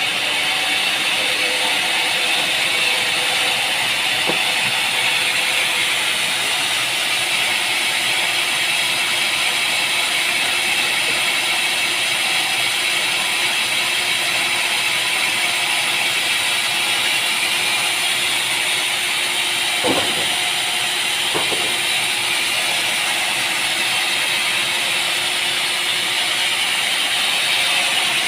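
Machinery running steadily with a high, even hiss, broken by two short knocks about two-thirds of the way through.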